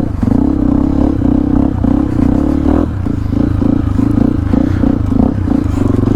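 Yamaha WR155R's single-cylinder four-stroke engine running at low speed, its note holding steady and then, from about three seconds in, rising and falling in uneven pulses.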